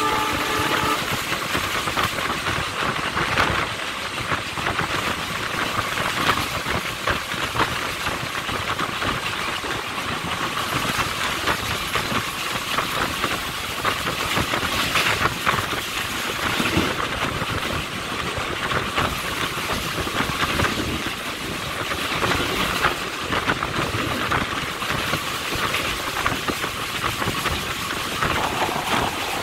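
Passenger train running at speed, heard from the open door of its luggage van: wheels clattering over the rails with a steady rush of air and track noise. A train horn tone stops about a second in.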